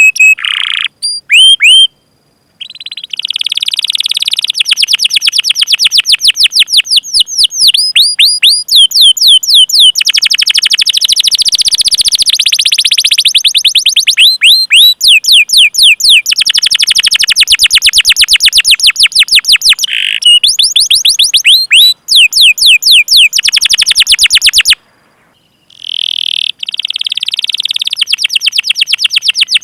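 Canary singing a long rolling song of high-pitched, very rapidly repeated chirps and trills ('cuit cuit' calls), with two short breaks, about two seconds in and again about twenty-five seconds in.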